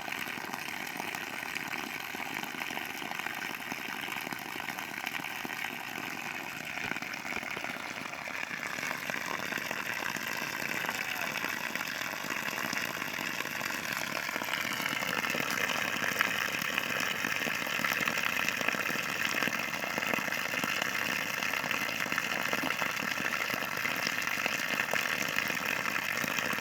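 Water gushing out of a newly drilled well being flushed clear, over a steady motor hum. The sound grows a little louder, and its pitch shifts up slightly about halfway through.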